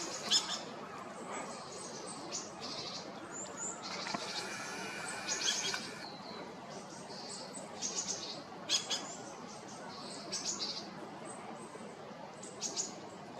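Small wild birds calling, with many short, high chirps scattered irregularly over a steady outdoor background.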